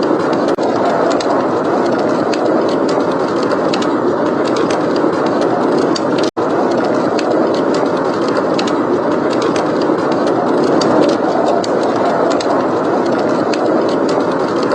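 Blizzard wind blowing steadily, with a wood fire crackling over it in many small, sharp pops. The sound cuts out for an instant about six seconds in.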